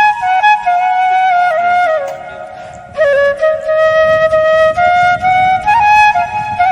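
Background music: a solo flute playing a slow melody, with a brief pause about two seconds in before the tune resumes.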